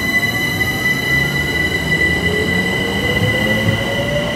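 A train at close range: a steady high-pitched squeal with a slowly rising whine beneath it, as the train gathers speed.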